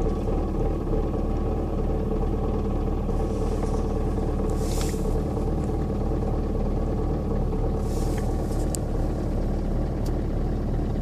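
Nissan Qashqai's 1.5 dCi K9K four-cylinder diesel idling steadily after a cold start at −20 °C without preheating. Two brief hisses about five and eight seconds in.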